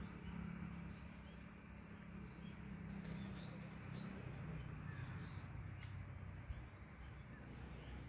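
A bird calling with faint, short high notes, over a low steady hum that fades about halfway through.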